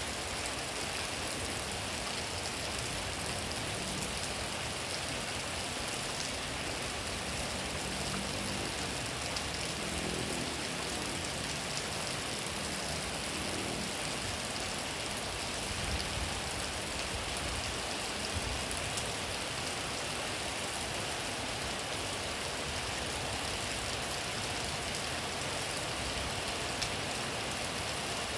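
Steady rain falling in a constant hiss. Partway through, a motor vehicle's engine is heard faintly going by under the rain.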